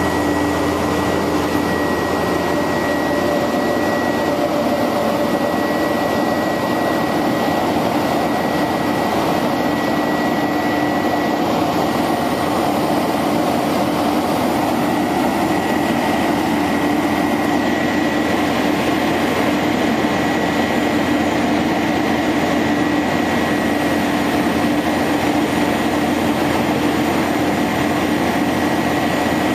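1999 International 4900 bucket truck running steadily, a constant mechanical noise with a steady high whine over it.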